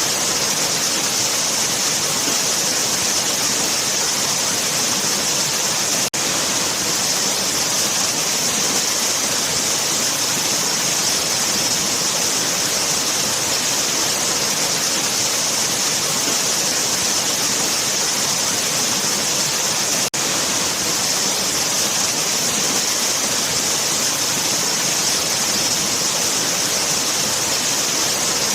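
Waterfall: a continuous, steady rush of falling water, hissy and bright, with two momentary dips in level.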